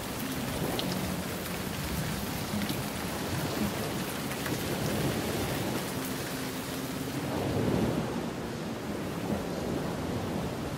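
Heavy rain on a moving car, heard from inside the cabin: a steady rush of rain on the roof and glass with the wet road underneath, swelling louder about seven and a half seconds in.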